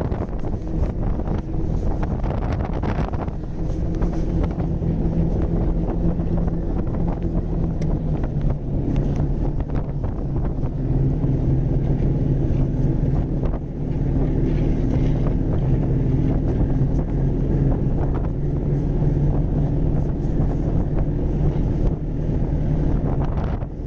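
Snowmobile engine running steadily at cruising speed, its note dropping slightly about eight seconds in, with wind buffeting the microphone.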